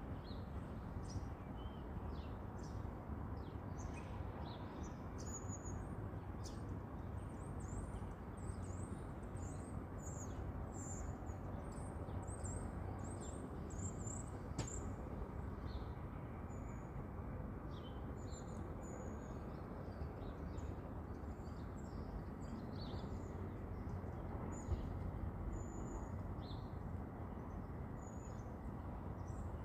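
Birds chirping and calling in many short, high notes, densest in the first half, over a steady low background rumble.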